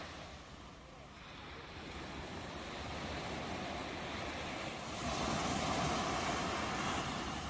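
Ocean waves breaking and washing ashore: surf noise that builds gradually, then swells to its loudest about five seconds in.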